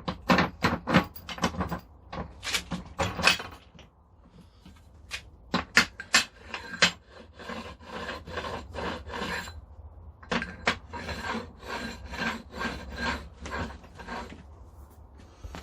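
Hand tool working steel grinder parts: runs of quick rasping strokes, a few a second, in several bursts with short pauses between them.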